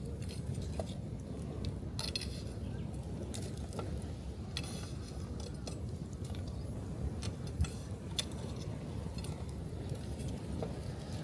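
Wood campfire crackling with scattered sharp pops, over a steady low wash of waves breaking on the beach.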